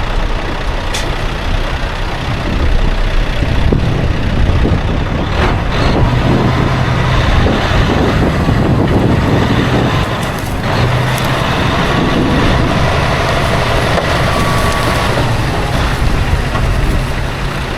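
Diesel engine of heavy farm machinery running steadily under load, with a low engine hum that rises and eases slightly over the seconds.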